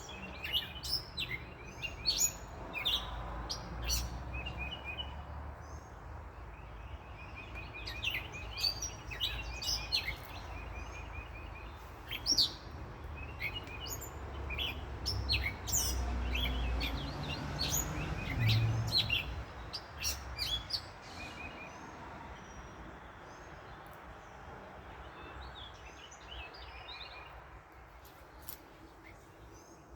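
Several wild birds chirping and calling, some in rapid trills, over the low rumble of road traffic that swells about halfway through and fades away toward the end.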